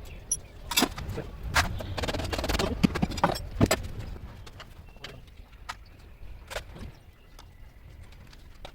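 Irregular clicks and knocks, like tools and metal parts being handled, coming thick in the first few seconds and thinning out after, over a low steady rumble.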